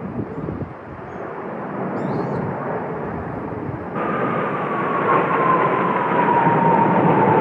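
Kawasaki T-4 jet trainers flying over, a steady jet roar that grows louder. About four seconds in a turbine whine comes in and slowly falls in pitch.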